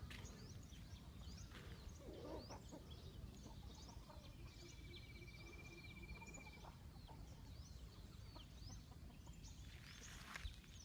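Faint chorus of many short, high chirping calls from small animals, with one steady trill lasting a couple of seconds near the middle, over a low rumble.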